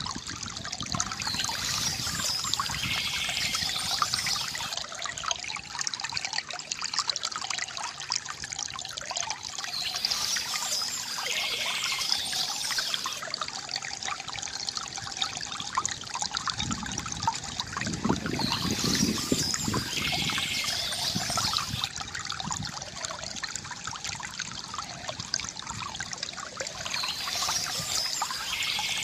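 Stream water trickling steadily, with a brighter, hissier stretch swelling and fading about every eight to nine seconds.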